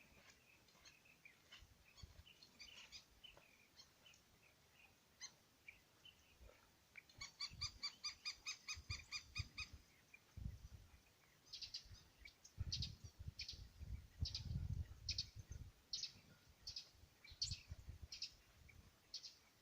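A bird calling a rapid run of about ten high, clear notes a second for a couple of seconds. After it comes a series of regular scuffs and taps, roughly one every half second.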